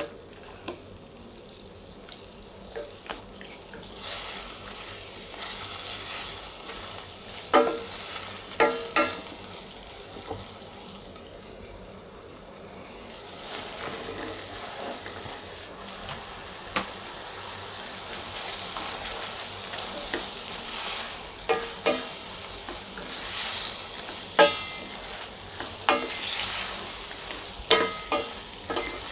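Chicken frying with a steady sizzle in a stainless steel pan, stirred with a wooden spoon that knocks and scrapes against the pan every few seconds. Carrot strips go in partway through and are stirred in with the chicken.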